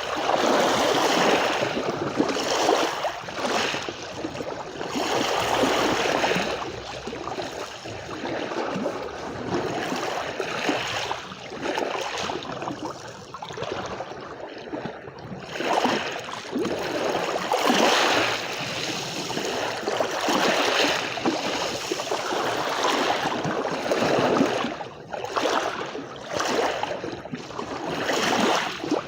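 Small sea waves washing onto a shore, the rush of water swelling and ebbing every few seconds.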